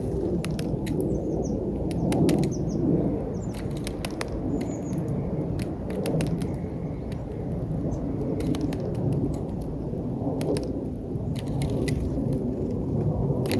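Small birds pecking and cracking peanuts at a feeder: many sharp, irregular taps and clicks, with a few short, faint high chirps in the first half. Under it all runs a steady low rumble, the loudest thing present.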